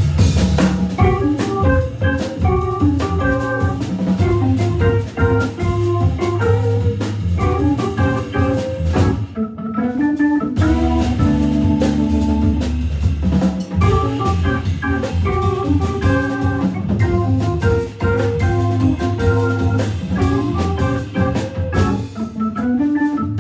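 Hammond B3 organ playing quick melodic runs over a jazz drum kit in a live organ-trio groove. About ten seconds in the band stops for a moment, then comes back in with held organ chords.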